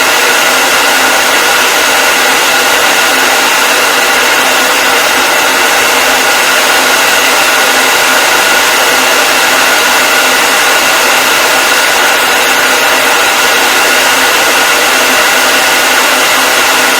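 Hair dryer running steadily: a loud, even blowing noise with a faint motor hum in it.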